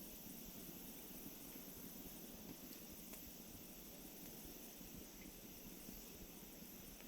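A wood campfire burning quietly on firewood that is not fully dry, with a soft steady hiss and a few faint crackles. Over it runs a high, rapidly pulsing chirp.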